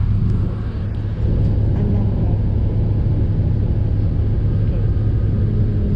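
Steady low rumble of a city bus on the move, heard from inside the air-conditioned cabin, briefly dipping about a second in.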